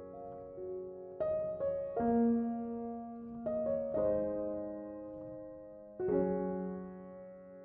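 Background piano music: slow, sustained notes and chords changing every second or two, growing softer near the end.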